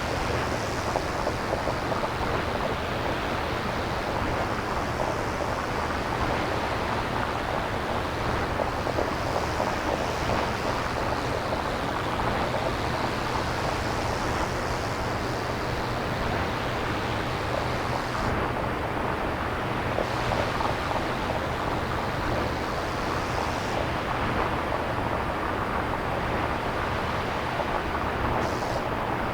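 Synthesized nature-sound noise, a steady rushing hiss like wind or surf made without recordings, its higher part slowly swelling and easing over a low steady rumble.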